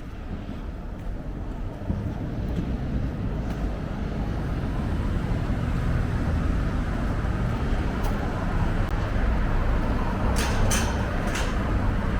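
Road traffic noise: a steady rush of passing vehicles that builds slightly, with a few sharp clicks near the end.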